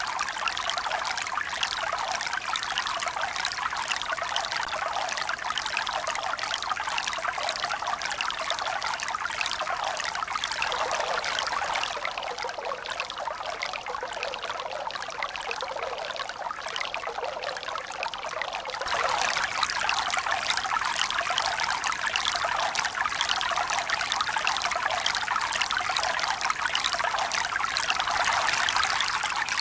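Steady running water, trickling and splashing like a stream. Past the middle it turns quieter and thinner for several seconds, then comes back louder suddenly.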